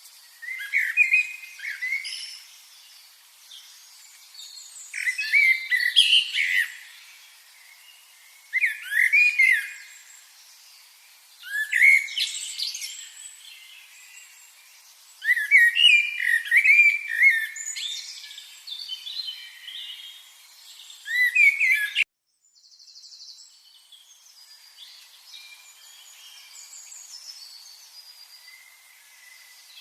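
Birds singing: loud phrases of a second or two, repeated every few seconds. About two-thirds of the way in the sound cuts off suddenly, then fainter chirping carries on.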